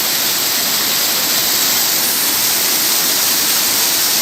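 Waterfall water pouring over rocks close by, a loud, steady rushing with no break.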